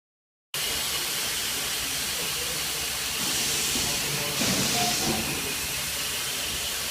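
Industrial steam ironing equipment hissing steadily as steam escapes, with two stronger bursts of steam about three and four and a half seconds in.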